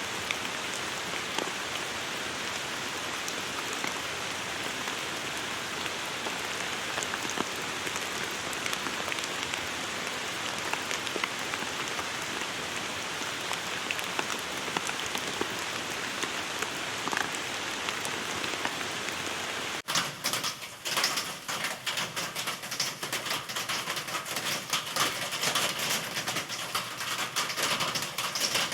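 Recorded rain: a steady, even hiss of falling rain that cuts off suddenly about two-thirds of the way through and gives way to closer, uneven pattering of individual drops.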